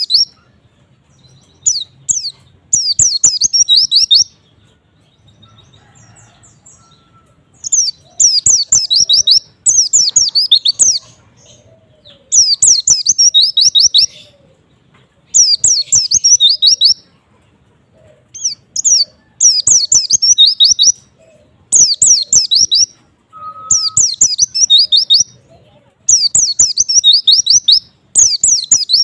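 White-eye (pleci) singing: rapid, high, twittering song phrases, each a second or two long, repeated with short pauses between them.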